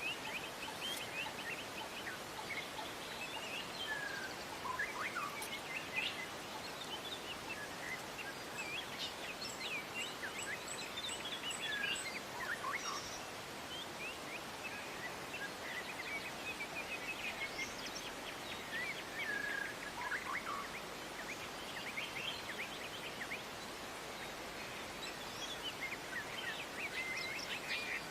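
Wild songbirds chirping and calling: many quick, high chirps with a few short whistled notes that slide downward, over a steady background hiss.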